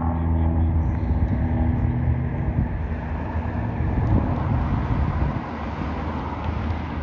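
A motor vehicle's engine running with a steady low hum that fades away about three seconds in, leaving road and traffic noise.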